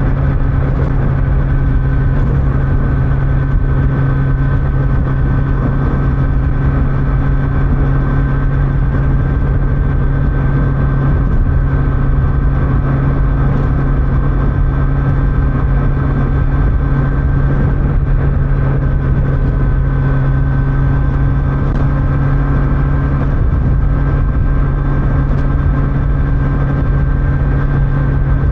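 Kawasaki Z900's inline-four engine and stock exhaust running steadily at an even cruising speed, with wind and road noise.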